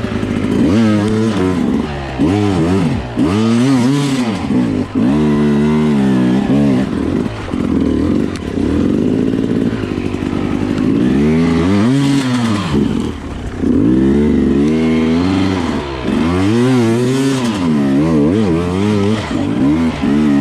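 Enduro dirt bike engine revving up and dropping back over and over, the throttle worked in short bursts roughly every second or two.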